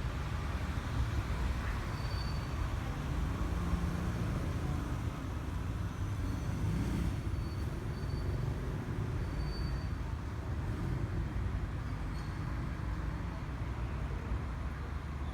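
Steady low rumble of outdoor background noise, like traffic or wind, with a few faint, short high-pitched tones now and then.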